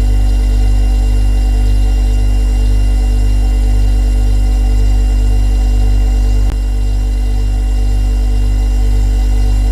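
Refrigerator humming steadily: a low, even mains-frequency hum with overtones. A single click about six and a half seconds in, after which the hum is slightly quieter.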